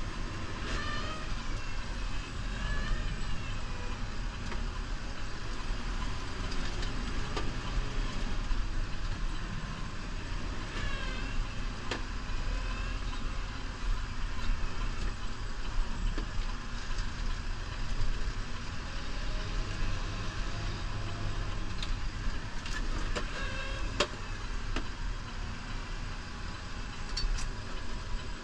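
New Holland Powerstar 75 tractor's diesel engine running steadily, with a few short wavering high whines and occasional sharp knocks.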